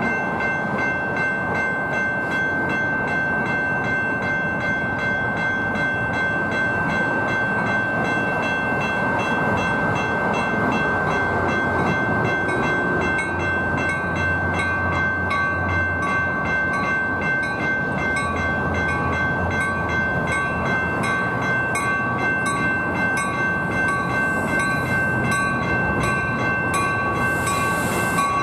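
Coaster commuter train, cab car leading, arriving alongside the station platform: a steady rumble that grows heavier about halfway through, then rapid wheel clicks over the rail joints as the double-deck cars pass close by near the end. A steady high-pitched tone sounds over it throughout.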